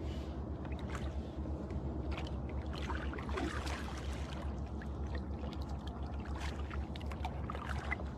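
Small waves lapping and splashing against a kayak's hull in many small irregular splashes, over a steady low wind rumble on the microphone.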